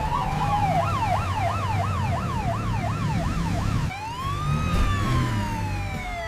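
Ambulance siren in fast yelp mode, sweeping up and down about twice a second. A little before 4 s it switches to a single slow wail that rises and then falls away, over a low rumble.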